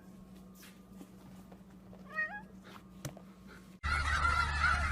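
A single short animal call, rising in steps, about two seconds in, over a faint steady hum. Near the end the sound jumps suddenly louder as geese start honking.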